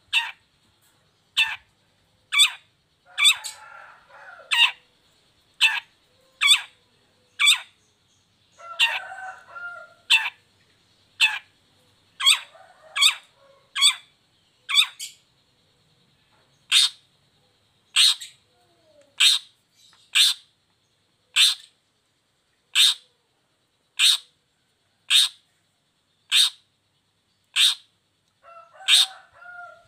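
Long-tailed shrike (cendet) repeating a short, sharp call note about once a second, with a few brief stretches of softer, lower chattering between the calls.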